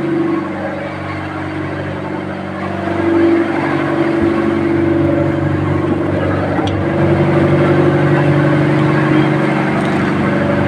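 A ship's engine running steadily, with a low drone that grows louder about three seconds in.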